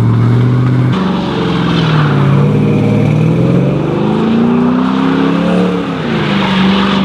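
A truck engine revving hard: it is held at a steady high pitch for about a second, then the revs rise and fall repeatedly.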